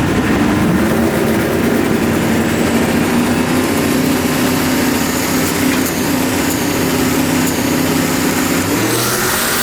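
A drag-racing car's engine running steadily at idle. Near the end its note shifts as revving is about to begin.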